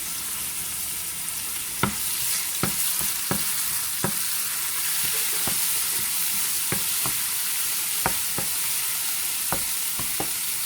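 Chopped garlic sizzling in hot oil in a frying pan, a steady hiss, while it is stirred: a utensil clicks and knocks against the pan about a dozen times at irregular intervals.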